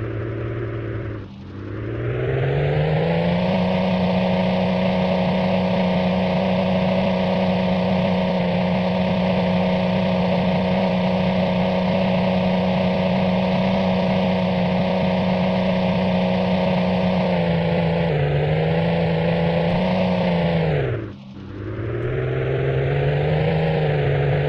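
A motor running with a steady pitched hum. It speeds up about a second in, holds steady, wavers, then winds down and stops abruptly before starting up again near the end.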